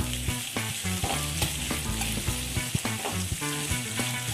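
Sliced onions and green chillies sizzling in hot oil in a kadhai, stirred with a metal spatula that scrapes and clicks against the pan.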